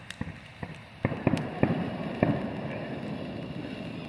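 Fireworks going off: a string of sharp cracks and pops, thickest between about one and two and a half seconds in, over a steady crackling hiss.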